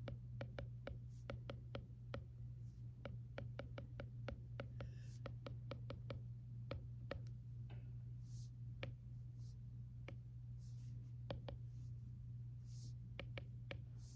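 Stylus tapping and writing on an iPad screen: sharp, irregular clicks, several a second, with a few short scratchy strokes, over a steady low hum.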